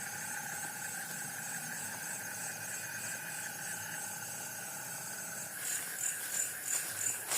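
Crickets and other night insects trilling steadily in several high pitches. About two-thirds of the way in, a faster pulsing chirp joins, a couple of pulses a second.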